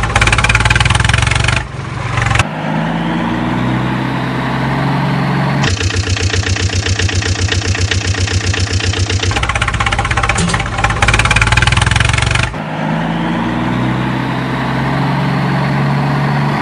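Engine running in a repeating cycle: a rev that rises in pitch, then a rhythmic chugging idle, then a rougher full-throttle stretch, which starts over partway through.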